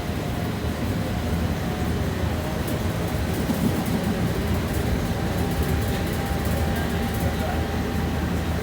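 Inside the passenger cabin of a BKM 60102 tram running between stops: a steady rumble of wheels on rail and running gear, with a faint steady whine.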